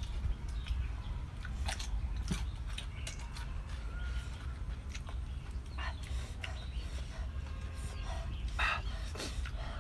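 Chewing and lip-smacking of people eating grilled fish, with short sharp smacks scattered through, over a steady low rumble.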